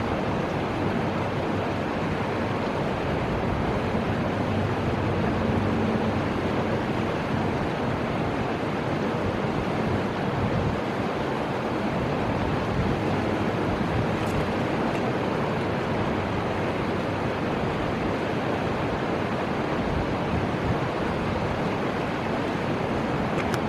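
Steady, even rushing of the Fuji River's flowing water.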